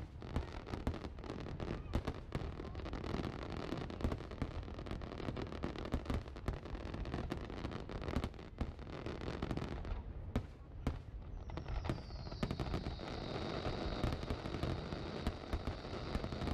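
Aerial fireworks display in full swing: a dense run of bangs and crackling bursts, one after another with hardly a gap. About two-thirds of the way through, a long high whistle sets in, dropping slightly in pitch and then holding steady under the bursts.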